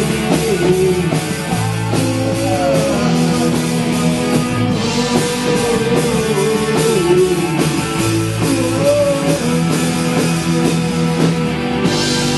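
Rock band playing: guitar and drums keep a steady beat under a wavering melody line.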